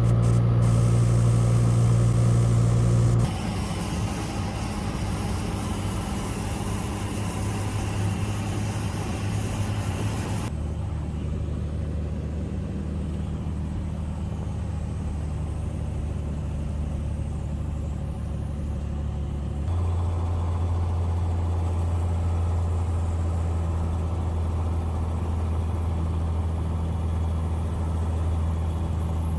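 Cessna Skylane's piston engine and propeller droning steadily in flight. The drone changes pitch abruptly about three, ten and twenty seconds in.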